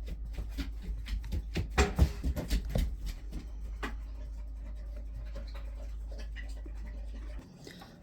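Tarot cards being handled: a run of light taps, slides and rustles of card on card and table, busiest about two seconds in. A steady low hum in the background cuts out near the end.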